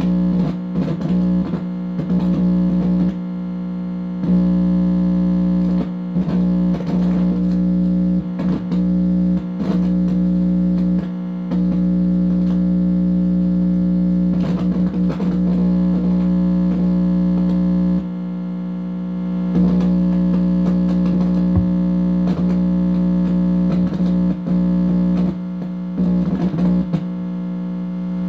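Electronic interference buzz through an amplifier speaker: a steady distorted hum with warbling, sweeping bursts and sharp crackles coming and going over it.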